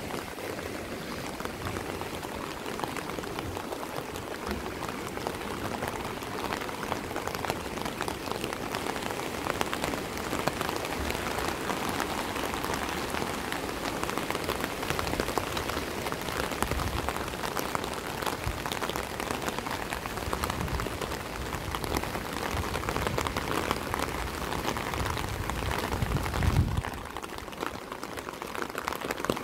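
Steady rain falling and pattering on surfaces, a dense hiss full of fine individual drop ticks. Near the end there is a brief low rumble that is louder than the rain.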